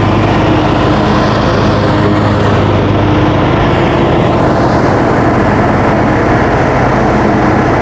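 Coleman rooftop heat pump air conditioner running on cool, with its blower fan and compressor making a loud, steady hum; the upper hiss drops a little about four seconds in. The fan is running again; the earlier fault was a bad fan relay on the control board.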